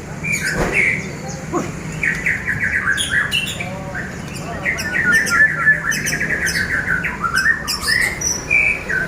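Caged songbirds singing: rapid chattering trills of repeated notes mixed with short whistled phrases, continuing without a break.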